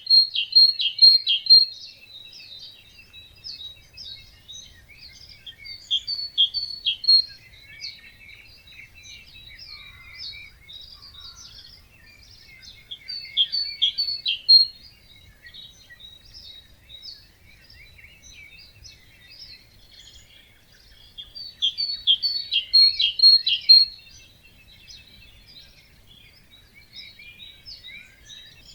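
Dawn chorus of wetland songbirds: one bird close by repeats a short, loud song of quick high notes about every seven to eight seconds, while other birds chirp and sing more faintly throughout.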